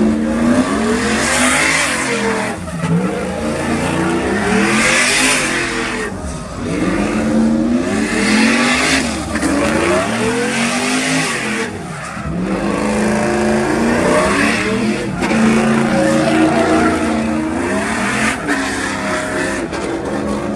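Pickup truck engine revving over and over, its pitch climbing and dropping every couple of seconds.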